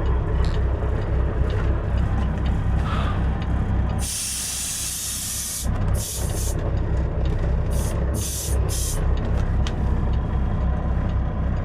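Semi truck's diesel engine running with a steady pulsing rumble, and about four seconds in a loud burst of compressed-air hiss lasting under two seconds, followed by several shorter hisses: air released from the truck's air brake system.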